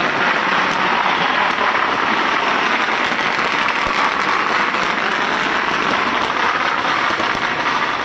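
Dense, steady crackling of many firecrackers and fireworks going off together, an unbroken rattle with no pauses.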